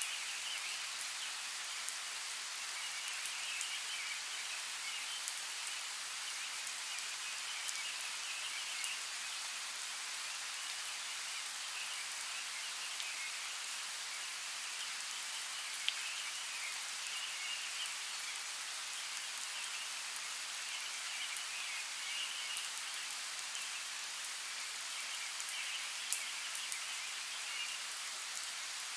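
Steady heavy rain, an even hiss of drops falling on surfaces, with occasional sharper drip ticks, the clearest about halfway through and near the end.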